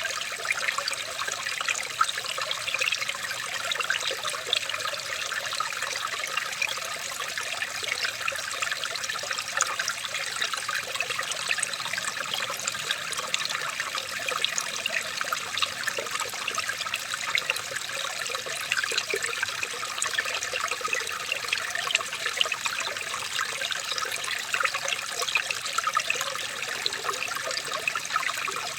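Water trickling and splashing steadily, like a small stream running over stones.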